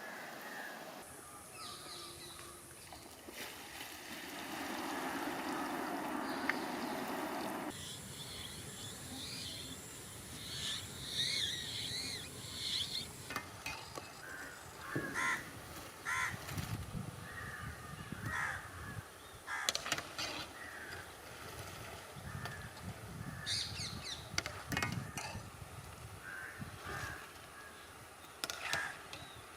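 Outdoor background ambience with birds calling now and then and a few sharp knocks.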